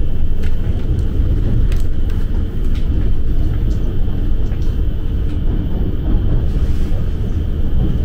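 Steady low rumble of a moving passenger train, with faint steady higher tones and a few light clicks.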